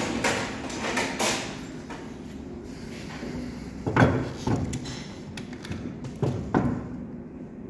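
A series of short knocks and clunks from work on a car's front brake assembly, the loudest about four seconds in, over a steady low workshop hum.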